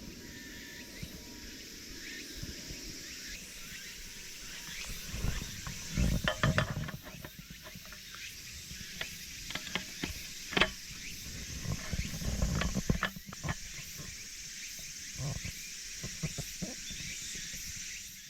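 Scattered clicks, knocks and rattles of a folding aluminium camp table's frame and roll-up top being handled and assembled, over a steady insect chorus.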